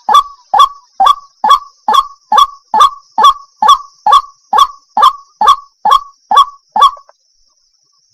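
Waterhen calling: a rapid, even run of loud honking notes, about two and a half a second, that stops abruptly about seven seconds in. A faint steady high hiss lies underneath.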